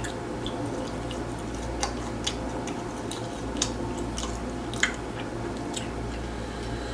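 Close-up chewing of grilled chicken, with irregular sharp wet mouth clicks every second or so over a steady low room hum.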